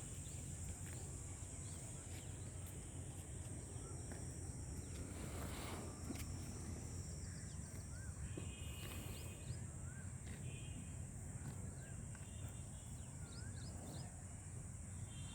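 Rural outdoor ambience: scattered short bird chirps over a steady low rumble and a constant high-pitched hiss. A brief rushing noise comes about five seconds in.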